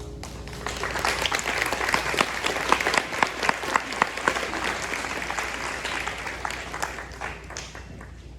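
Audience applauding: the clapping starts about half a second in, swells, and fades away near the end.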